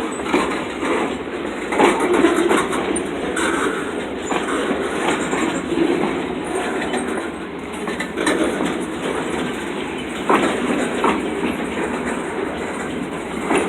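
Freight train cars rolling past with a steady wheel-on-rail rumble, broken by a few sharp clacks from the wheels at irregular intervals.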